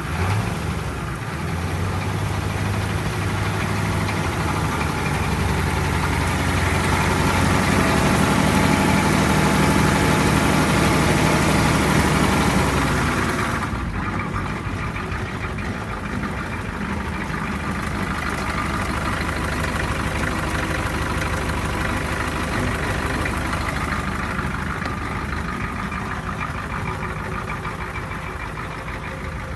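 1991 International 4600LP truck's engine running just after being started, first at a raised idle and then, about halfway through, dropping suddenly to a lower, steady idle.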